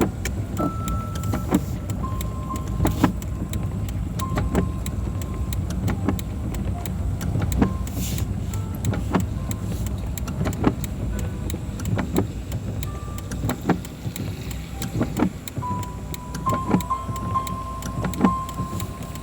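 Car interior while driving in the rain: a steady low rumble of engine and tyres, with irregular sharp ticks of raindrops striking the windscreen and roof.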